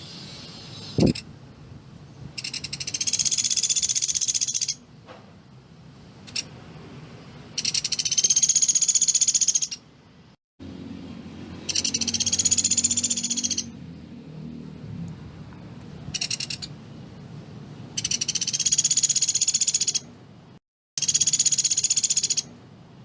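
Pelatuk beras woodpecker giving rapid, high-pitched rattling trills, five bursts of about one to two and a half seconds each with short pauses between. This tight, machine-gun-like rattle is the call used as a master recording for songbirds to copy.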